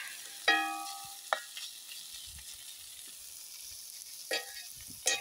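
Corned beef hash sizzling faintly in a cast iron skillet while a knife blade stirs it. The blade clinks against the pan several times: first a ringing clink about half a second in, then shorter knocks.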